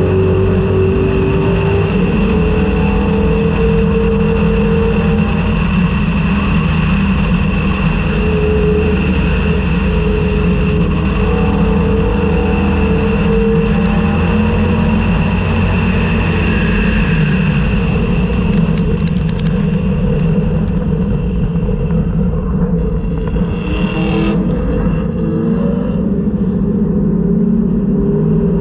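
Race-prepared 1999–2004 Ford Mustang engine heard from inside the car, running hard with changes in pitch through the gears. About twenty seconds in the engine eases off, with a short sharp noise a few seconds later, and it picks up again near the end as the car reaches a corner.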